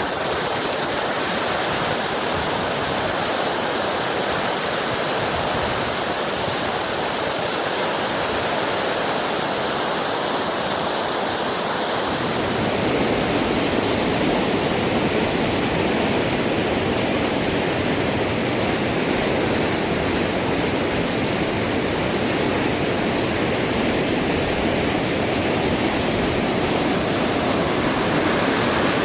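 Fast-flowing, rising river water rushing steadily, growing a little fuller and louder about twelve seconds in.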